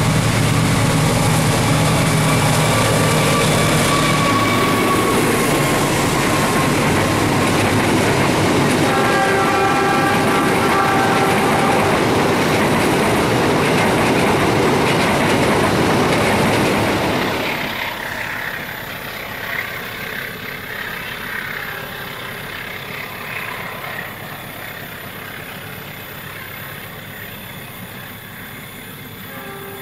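Diesel locomotive hauling a passenger train passing close by: the engine running, the horn sounding a few held tones, and the coaches rolling past on the rails. About 18 seconds in it drops suddenly to a fainter, distant train.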